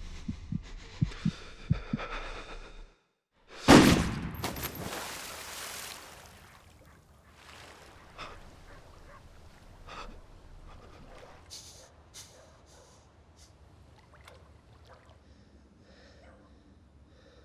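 A low heartbeat-like thumping, about three beats a second, cuts to a moment of silence. Then comes a single loud bang that rings away over about two seconds, followed by faint scattered clicks and ticks.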